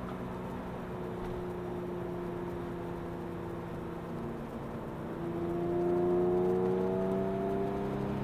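Porsche 911 Carrera S (997) flat-six engine heard from inside the cabin, running steadily under way at first, then rising in pitch and getting louder from about five seconds in as the car accelerates.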